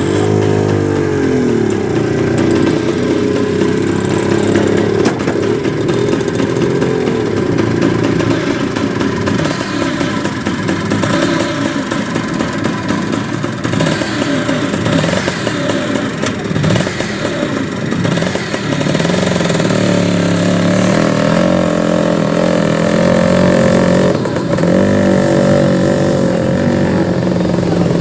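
Engines running with shifting pitch, with a change of pitch just after the start and a steadier engine note settling in over the last third.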